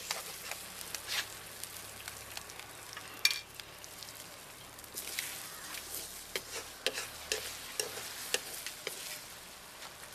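Eggs with chopped tomato and onion sizzling in oil in a steel kadai, a steel spoon scraping and tapping the pan as it stirs. One sharp clink about three seconds in.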